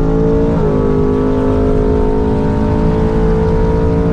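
A drag-racing car's engine running at a steady, fairly high pitch, with a small step up in pitch about half a second in, then cutting off abruptly near the end.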